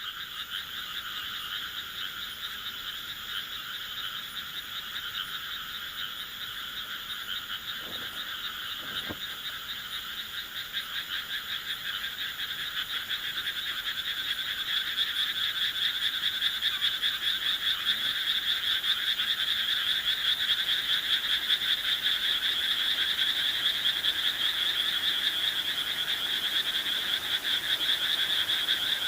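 Chorus of many frogs calling at once in a dense, continuous stream of rapid trills, growing louder about halfway through.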